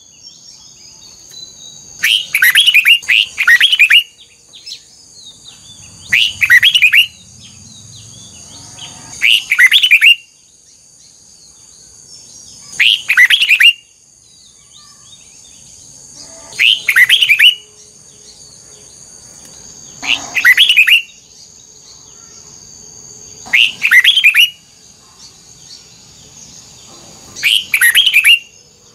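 Red-whiskered bulbul singing: short, loud phrases of quick warbled, bending notes, about one every three to four seconds.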